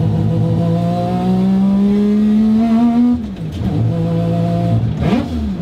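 Mazda RX-7 rotary engine heard from inside the cabin, its note climbing steadily for about three seconds as the car accelerates, then dropping away sharply as the driver lifts off. It settles back to a lower note and gives a quick rev near the end.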